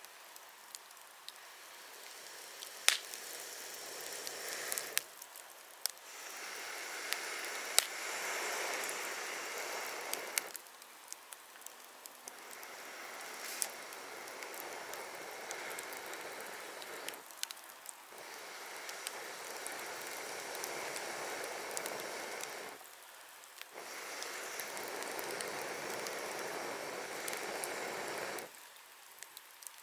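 Wood campfire crackling, with sharp pops scattered through. Over it comes a steady rushing hiss in four stretches of about four to five seconds each, with short breaks between.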